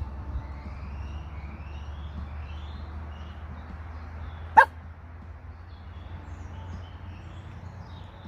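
A dog barks once, sharply, about halfway through, over a steady low rumble.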